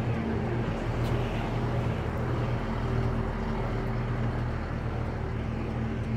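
SMART diesel multiple-unit train idling at the platform: a steady, even engine hum.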